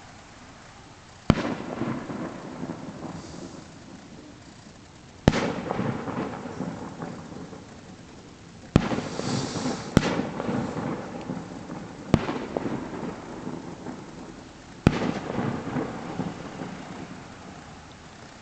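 Aerial fireworks shells bursting at a distance: six sharp bangs a few seconds apart, each followed by a long rolling rumble of echoes off the hills.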